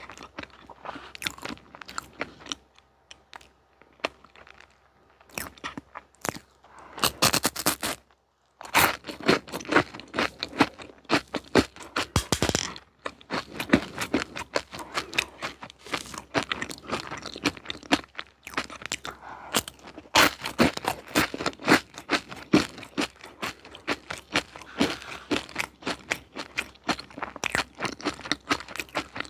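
Close-miked eating: a crunchy dessert snack being bitten and chewed, with many sharp, irregular crunches. There is a brief pause about eight seconds in.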